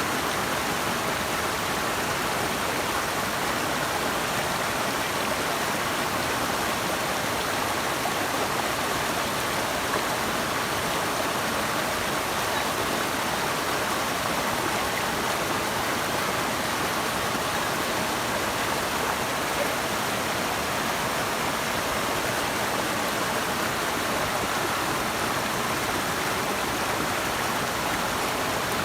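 Flowing water rushing steadily, with no change in level.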